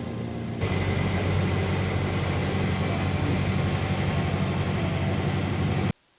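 Steady low engine drone with a rushing noise, cutting in abruptly about half a second in and cutting out suddenly just before the end.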